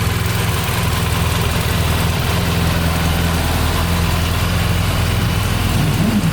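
BMW F800R's parallel-twin engine idling steadily, with a brief rise and fall in pitch near the end.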